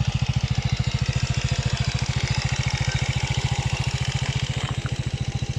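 Homemade buggy's GY6 single-cylinder four-stroke fuel-injected scooter engine idling with a steady, even putter of firing pulses.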